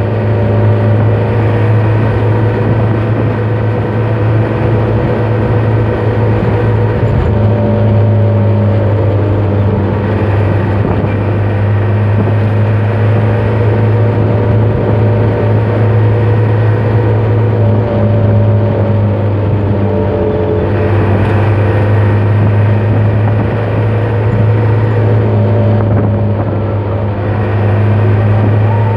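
Truck engine running steadily under way, a constant low hum with a stack of overtones that shifts slightly a couple of times. The engine has just been overhauled and is being run in on the road.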